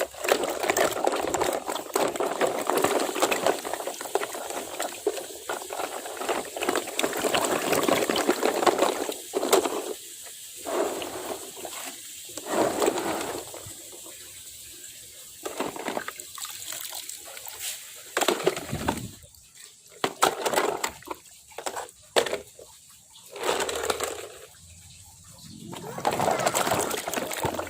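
Water splashing and sloshing as plastic toy vehicles are washed by hand in a tub of water: a steady rush of water for about the first nine seconds, then irregular separate splashes with short pauses between them.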